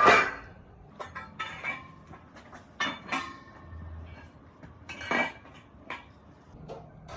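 Hard objects knocking and clinking together in a series of separate clanks with short metallic ringing, the loudest at the very start.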